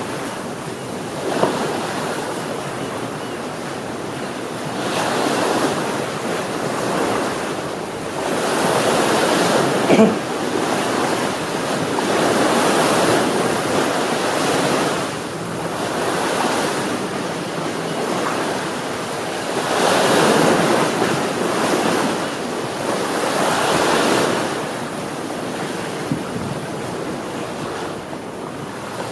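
Sea waves washing onto the shore, the surf swelling and ebbing every few seconds, with some wind noise on the microphone. There is a brief sharp knock about ten seconds in.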